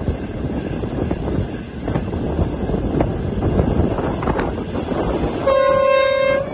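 Passenger train running along the track, heard from an open carriage window: a steady rumble and clatter of wheels on rail. About five and a half seconds in, a train horn sounds one steady blast of about a second.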